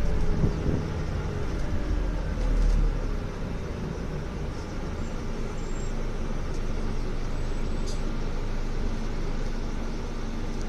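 Interior sound of a Scania N250UD double-decker bus: the engine note falls over the first few seconds, with a short knock about three seconds in, then settles into a steady idle.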